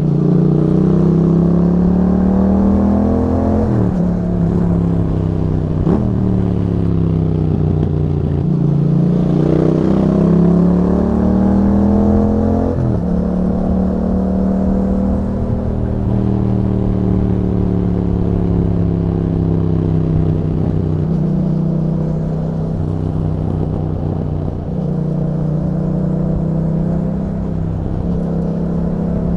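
Yamaha MT-07's parallel-twin engine through an Akrapovic exhaust fitted with a dB killer, revs climbing and then dropping sharply about three times in the first half, then running at fairly steady revs with small rises and falls.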